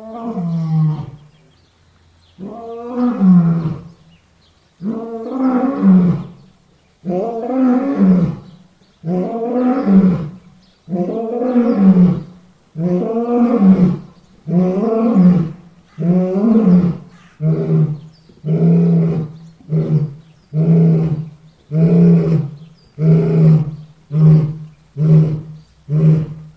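Lion roaring: a bout of long, deep roars about every two seconds that give way, after about two-thirds of the way through, to shorter grunting calls coming faster, about one a second.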